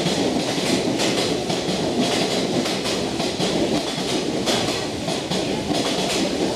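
Hanshin 1000 series electric train rolling into the station, its wheels clacking steadily over the rail joints.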